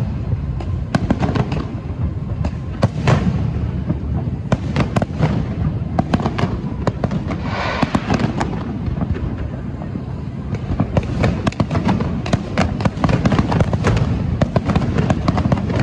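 Fireworks crackling and popping in rapid, dense volleys over a low rumble.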